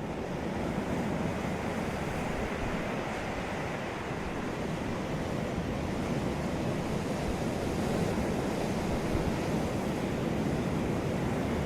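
Sea waves breaking and washing on a beach, a steady surf noise that slowly swells in level.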